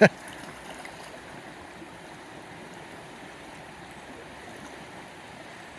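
Small upland stream flowing, a steady rush of running water.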